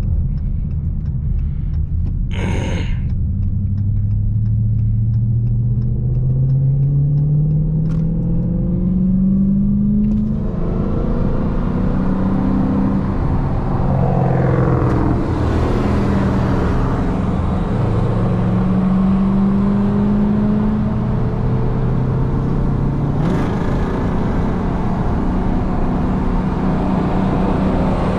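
V8 muscle car accelerating hard, its engine pitch rising slowly at first and then climbing in several shorter sweeps that drop back at each upshift. A louder rushing noise of wind and road comes in about ten seconds in.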